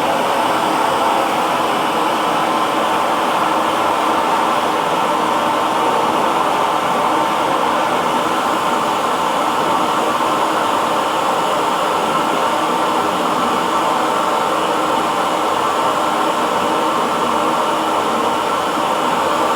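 Hair dryer blowing steadily, an even rushing whir with a faint steady hum, unchanging throughout.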